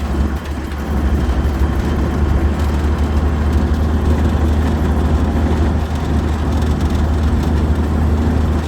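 Diamond T half-track's engine running as it drives along, heard from aboard as a steady, deep rumble.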